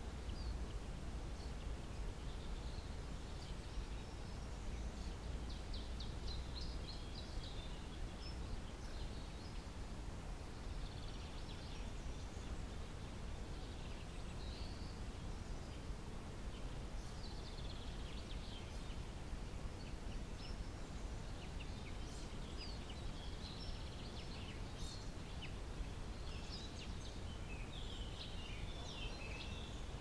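Songbirds chirping and trilling faintly on and off over a steady low rumble of outdoor ambience.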